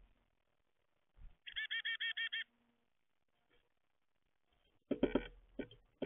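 Wild birds calling at a backyard feeder: a quick run of about seven repeated high notes about a second and a half in, then a few louder, harsher calls near the end.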